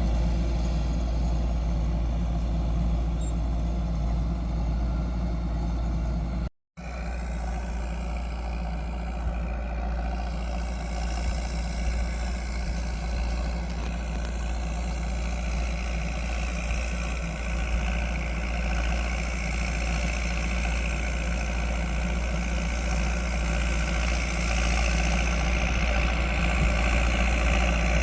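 Landini 9080 tractor's diesel engine running steadily as it pulls a plough. The sound cuts out completely for a moment about six and a half seconds in.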